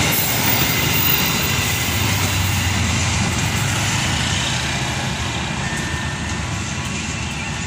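Passenger train passing on the tracks: a steady rumble of wheels on rails that slowly fades as the last coaches go by.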